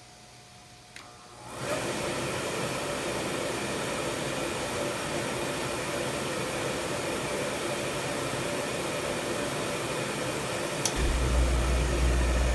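System 2000 oil-fired boiler's burner starting: a click, then the burner blower comes up to a steady rush. About eleven seconds in, another click and a deep rumble join as the oil ignites and the burner fires, this time starting after air was bled from the oil line.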